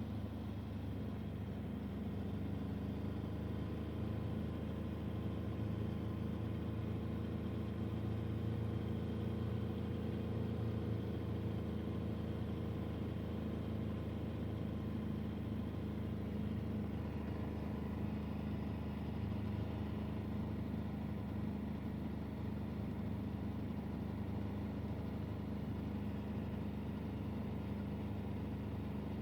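Motor vehicle engine running steadily at constant speed, a continuous low drone that shifts slightly in pitch about halfway through.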